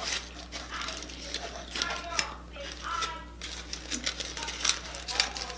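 Close-up chewing and wet mouth sounds from eating a large tortilla wrap, with the aluminium foil wrapper crinkling as it is peeled back. The sound comes as many short clicks and crackles.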